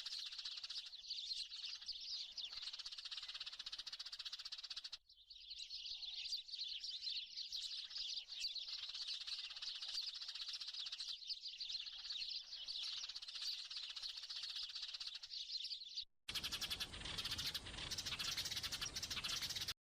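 Small wild birds chirping in a dense, continuous chatter of quick, high notes. Hard cuts about 5 seconds and 16 seconds in break it into three stretches.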